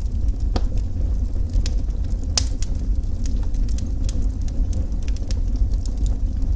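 Wood fire in a fireplace crackling, with scattered sharp pops, the loudest about half a second and two and a half seconds in, over a steady deep rumble.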